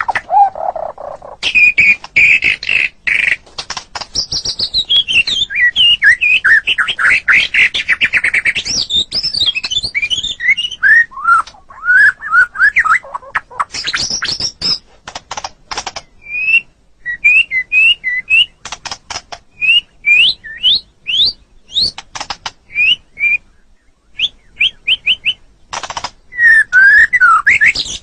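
White-rumped shama (murai batu) singing a varied song of loud whistles, rapid note runs and sharp clicks. In the second half it gives repeated short upward-sweeping notes with brief pauses between them.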